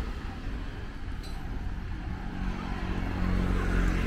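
Street traffic ambience with a motor vehicle's engine running close by. A steady low engine hum comes in about halfway through over a constant low rumble.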